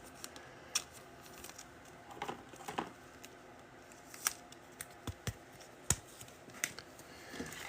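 A trading card pack being opened and its cards handled: scattered sharp clicks and small crinkles of foil wrapper and card stock, the loudest snaps a little past the middle.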